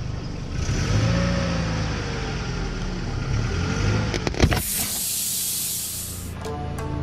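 A car's engine running at idle with a steady hiss, then a couple of sharp cracks about four and a half seconds in, where the engine sound stops, followed by a loud high hiss lasting about two seconds.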